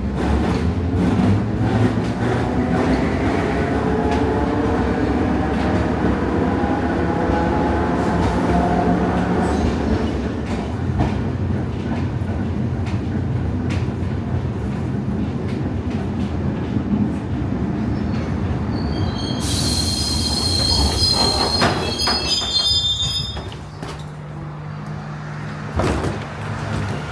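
Narrow-gauge tram-train running on its rails: a steady rumble with clicks and a motor whine that shifts in pitch, then the wheels squeal shrilly for about three seconds. Afterwards the rumble drops to a quieter steady hum.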